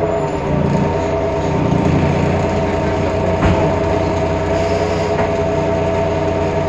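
Temsa Avenue LF city bus driveline, its DAF PR 228 diesel and ZF Ecolife automatic gearbox running with a whine of several steady tones over a low rumble. The uploader calls the sound strange and different from normal. The pitch settles about half a second in and then holds level, with a single knock about three and a half seconds in.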